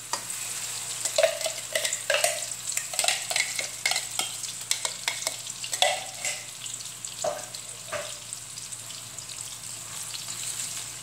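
Blended chili and onion spice paste sizzling and crackling in hot oil in a wok as it is sautéed, with scrapes and knocks from the blender jug tipping it out and then a spatula stirring it.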